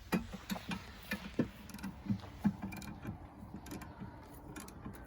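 Pickup truck jack being worked under the corner of a cabin: irregular clicks and knocks with short creaks as it takes the weight and lifts the building.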